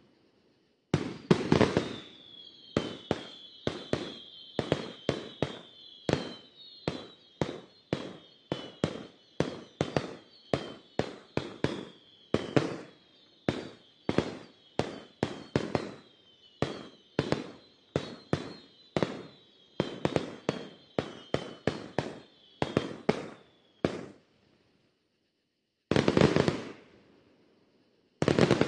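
Fireworks display: a rapid run of firework bursts, about one to two sharp booms a second, with high whistles falling in pitch running through them. Near the end the bursts stop briefly, then two more follow.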